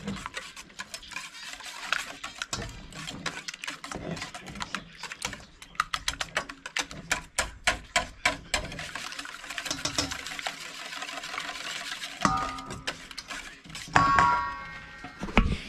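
A utensil clicking and tapping rapidly against a bowl as eggs are cracked and mixed, with a dense run of quick clicks partway through and a short ringing clink near the end.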